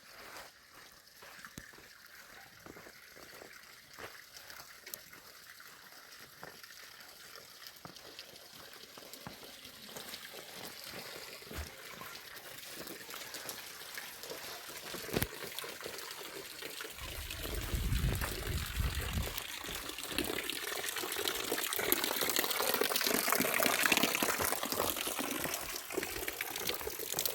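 Water running and pouring, getting steadily louder through the second half.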